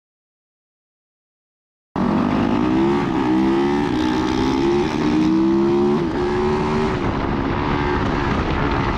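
About two seconds of dead silence, then a dirt bike's engine running loudly, its pitch climbing and dropping back several times as it revs.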